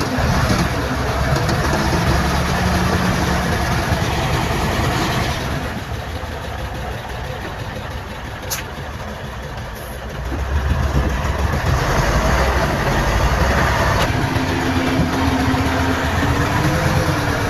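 Diesel engines of heavy earth-moving machinery, bulldozer and dump trucks, running steadily, easing off for a few seconds in the middle before picking up again.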